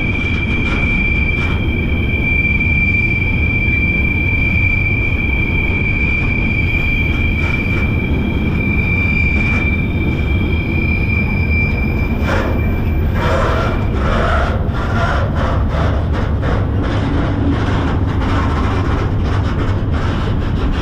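Freight train rolling, heard from aboard: a loud, steady rumble with a high, held wheel squeal for about the first half, which gives way around the middle to a rapid run of metallic clicks, clanks and scraping.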